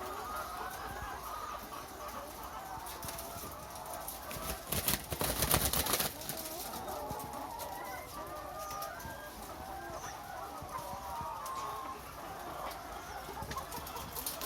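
A flock of layer hens clucking, many calls overlapping. About five seconds in comes a loud burst of knocks and rustling lasting a second or so.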